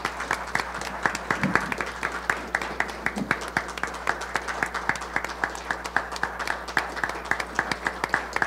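Applause: a group of people clapping steadily.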